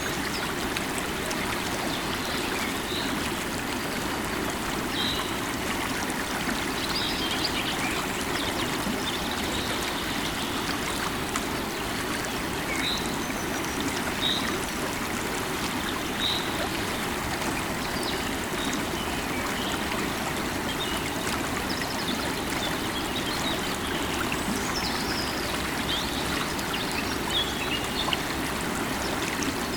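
Flowing stream of water running steadily, with short high bird chirps now and then.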